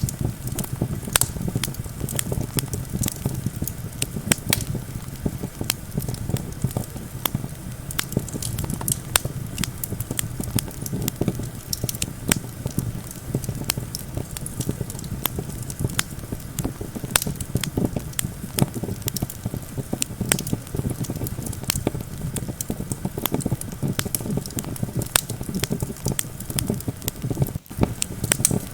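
Campfire crackling with many irregular sharp pops, over a steady low rumble of wind.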